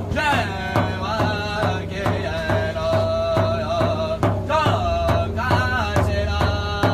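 Group drumming and singing: a large drum struck in a steady beat, nearly three strokes a second, with voices singing over it in rising and falling lines.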